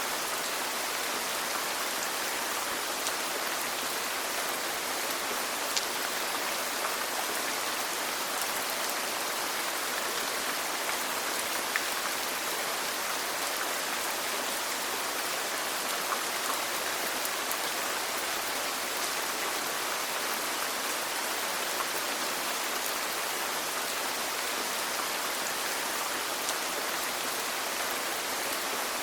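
Steady rain falling, an even hiss with scattered drops ticking distinctly.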